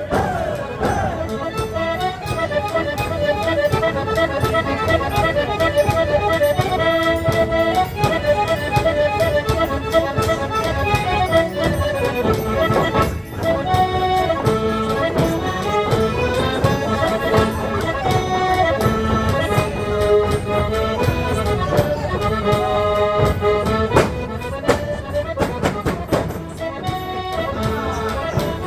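Portuguese folk music from a rancho folclórico band, led by accordion playing a lively melody over steady percussion strikes.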